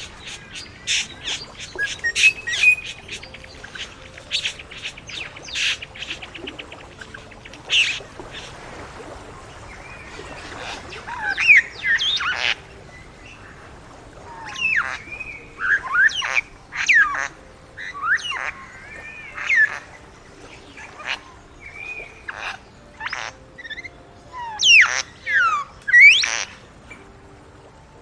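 Satin bowerbird calling: a run of dry clicks and rattling notes over the first several seconds, then a series of sharp squeaky notes and sweeping whistles, many of them falling in pitch.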